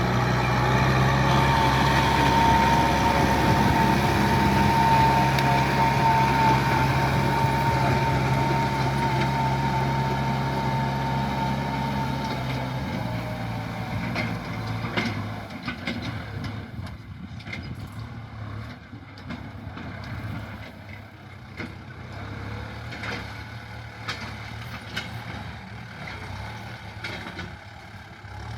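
Diesel tractor engine running steadily under load with a high whine, fading away after about twelve seconds as it moves off. Scattered short knocks and clanks follow while it is more distant.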